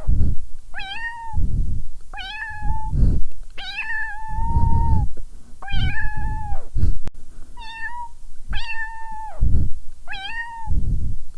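A kitten meowing over and over, about seven high-pitched calls, the longest about four seconds in. Dull low thumps and rumbles come between the calls.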